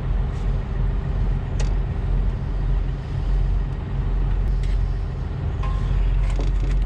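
Steady low rumble of an idling diesel engine, with a constant hum over it and a few faint clicks.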